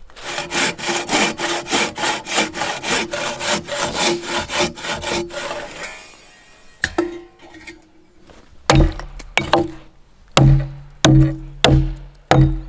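Small hand saw cutting through a log in rapid back-and-forth strokes, about four a second, for roughly six seconds before it stops. A regular percussive beat with low tones then comes in, likely background music.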